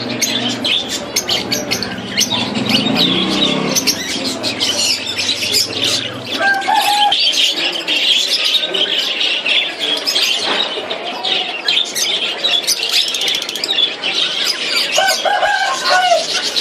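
Caged parrots chirping and squawking steadily, with a couple of short whistled notes. A low hum underneath stops about six seconds in.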